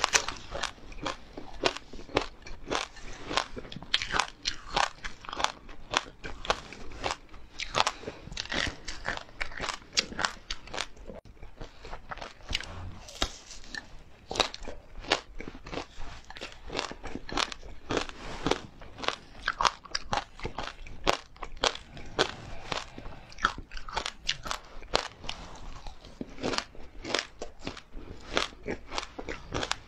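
Crispy oil-fried dried chili peppers being bitten and chewed close to the microphone: a steady run of sharp, crackling crunches, several a second.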